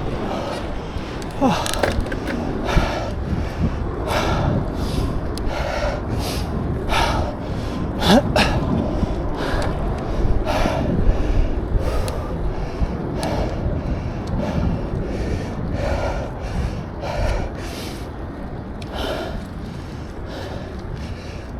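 A cyclist breathing hard and rhythmically, a breath about every second and a half, over steady low wind and road rumble on the microphone.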